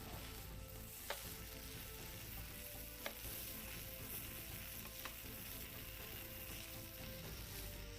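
Food sizzling faintly on a grill, with three sharp clicks about two seconds apart.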